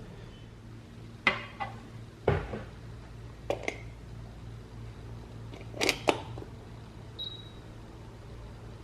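A few sharp clicks and knocks of hard parts being handled, mostly in quick pairs, with one deeper thump about two seconds in, over a steady low hum. The grinder's motor is not running.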